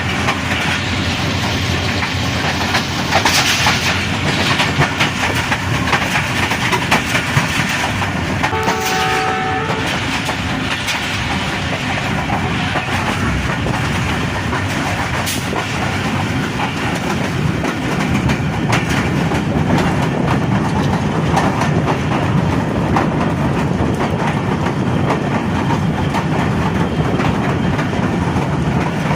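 Train running on the rails, a steady rumble and clatter under heavy rain, with one short horn blast about nine seconds in.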